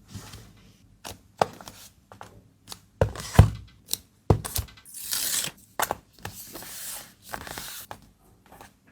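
Packaging being handled while an order is packed: a series of light taps and knocks, one louder thump about three and a half seconds in, then longer stretches of tearing and rustling.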